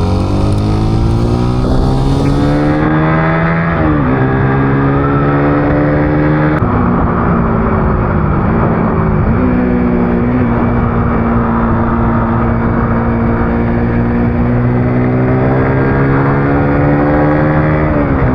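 Vehicle engine accelerating: its pitch rises over the first few seconds, dips at gear changes about four and nine seconds in and again near the end, and holds steady in between, over continuous road and wind noise.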